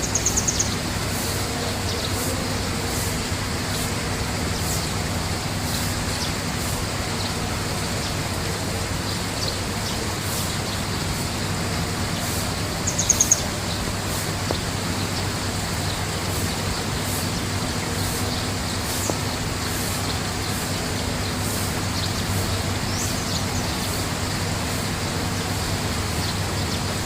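A small bird gives a brief, rapid trill twice, about 13 seconds apart, over a steady rushing noise with a low hum.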